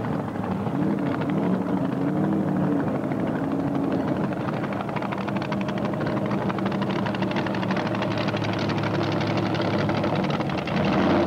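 Loud modified car engine running with a fast, chopping exhaust pulse. Its pitch rises and falls in the first few seconds, then holds steady at a fast idle.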